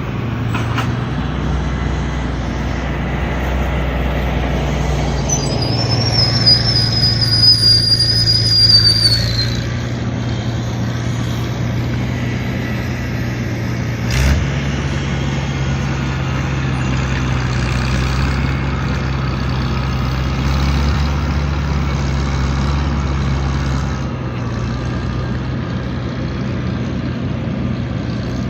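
Engine of a small farm vehicle running steadily under varying load, its low note shifting a few times. A high, wavering squeal sounds from about six to nine seconds in, and a single knock comes about fourteen seconds in.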